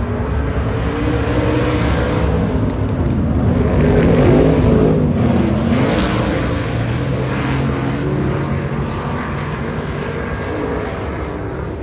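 A pack of IMCA stock cars running at racing speed, several engines at once, rising and falling in pitch. The sound swells to its loudest about four seconds in as the cars pass, with the pitch dropping, then eases off.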